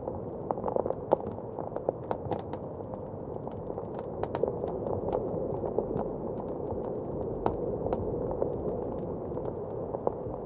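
Wood fire crackling, with irregular sharp pops and snaps, over a steady low rush of blizzard wind.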